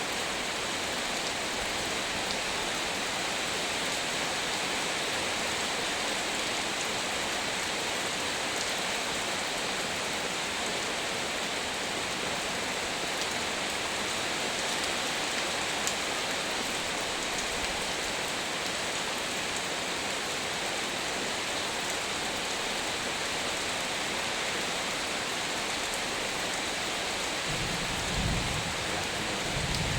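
Heavy rain pouring down steadily, with a brief low rumble near the end.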